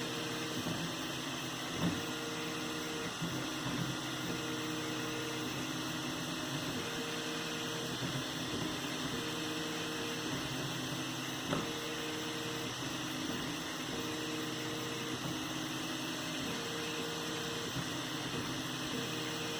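3D printer running a print: a steady fan hum under stepper-motor whines that change pitch as the axes move back and forth, a higher whine for about a second every two and a half seconds, with a couple of faint clicks.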